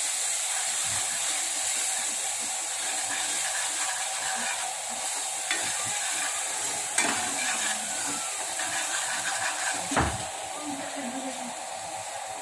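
Garlic, tomato and red-chilli tadka sizzling in hot oil in an aluminium kadai while a metal ladle stirs and scrapes it. The ladle knocks against the pan a few times, loudest about ten seconds in, after which the sizzle is a little quieter.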